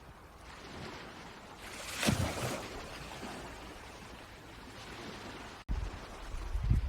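Outdoor water and wind noise, with a brief loud splashing swell about two seconds in and low wind buffeting on the microphone after a sudden cut near the end.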